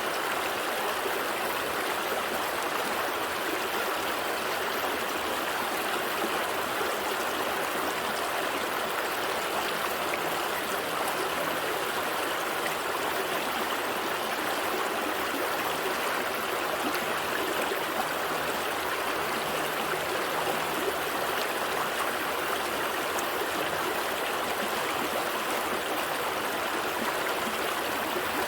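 A gentle stream flowing steadily over rocks, a continuous rushing and trickling of water.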